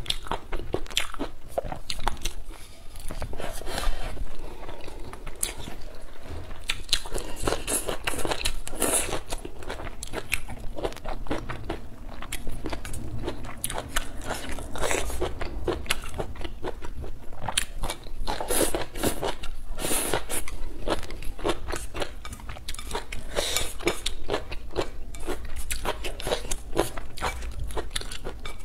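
A person biting and chewing green chili peppers and rice close to the microphone: a dense run of crisp crunches and chewing sounds.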